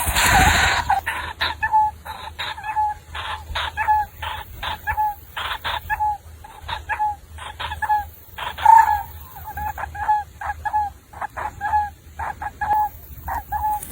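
A bird calling over and over in short, hooked notes, about two a second, with brief scratchy noises between the calls and a louder burst of noise at the very start.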